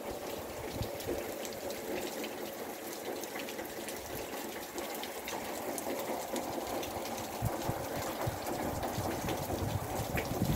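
Heavy rain pouring down onto a waterlogged dirt yard: a steady hiss thick with small drop splashes.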